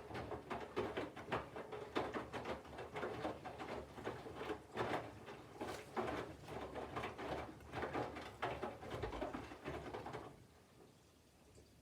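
Candy front-loading washing machine's drum tumbling wet laundry in the cold wash phase: irregular sloshing and soft thuds of falling clothes. The tumbling stops about ten seconds in.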